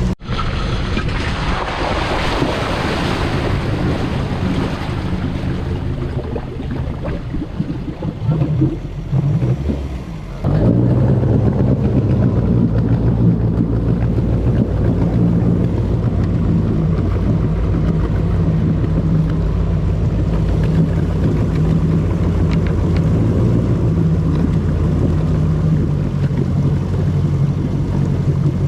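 Amphibious car's engine: for about the first ten seconds a loud rushing noise over the engine, then, after a sudden change about ten seconds in, the engine running steadily with a low drone as it motors on the water.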